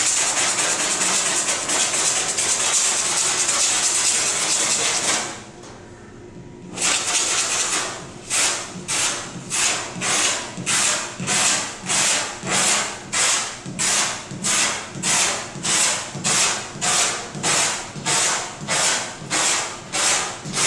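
Clay bar rubbed by hand over a vehicle's painted surface: about five seconds of continuous fast scrubbing, a short pause, then steady back-and-forth strokes at a little under two a second. The gritty, sandpaper-like rasp comes from the clay dragging over bonded spray-foam overspray.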